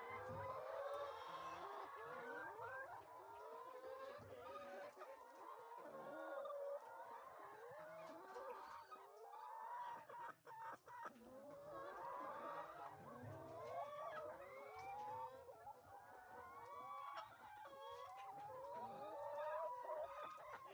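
A flock of laying hens clucking and calling, many overlapping calls at once without a break.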